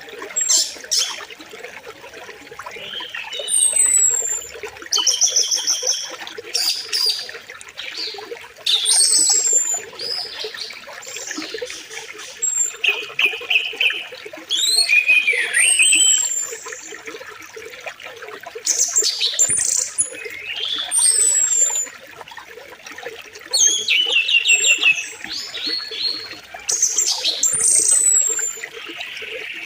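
Birds chirping and calling over the steady sound of a flowing river: repeated short phrases, including high descending whistles and fast trills, come every second or two.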